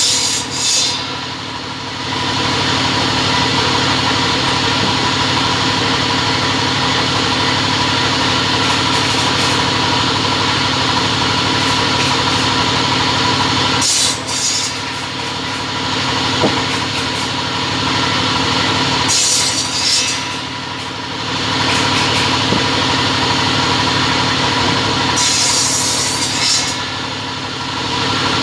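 Two-head cutting machine running with a steady hum and whine. Four short bursts of high hiss come at the start, near the middle and twice in the second half.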